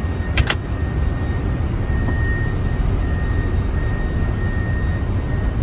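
Steady low rumble of engine and airflow noise in a Boeing 747 cockpit during the initial climb just after liftoff, with a thin steady high whine. Two sharp clicks come about half a second in.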